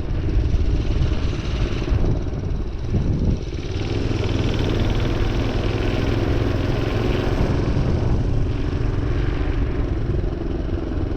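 Minibike's small engine running steadily while being ridden, its hum shifting slightly about three seconds in.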